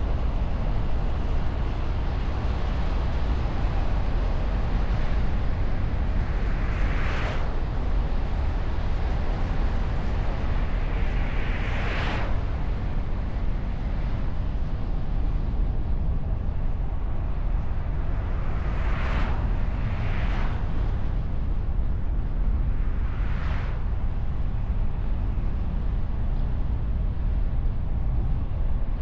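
Wind and road noise picked up by a camera mounted on a moving car's bonnet: a steady low rumble of wind buffeting with tyre hiss. About five vehicles swish past, each a short swell of hiss that rises and fades.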